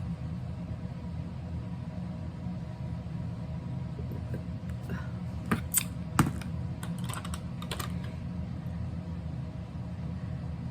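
Light, scattered clicks and taps of diamond painting tools (tweezers and small resin drills) against the plastic tray and canvas, bunched between about four and eight seconds in, over a steady low hum.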